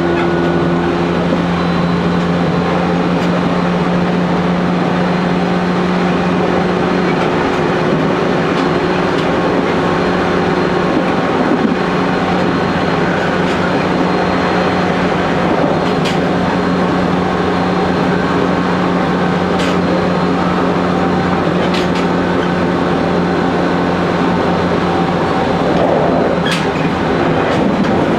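Running noise heard in the driver's cab of a JR Kyushu 813 series 200 subseries electric train: a steady rumble of wheels on rail under a steady motor hum, with a few sharp clicks along the way.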